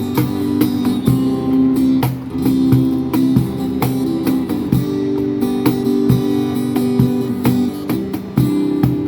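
Instrumental break of an amplified live band: guitar playing over a steady drum beat, with no singing.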